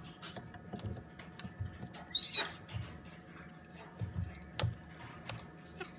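Moluccan cockatoo chicks begging for food: a run of soft low pulses, scattered small clicks, and one louder wavering squeak about two seconds in.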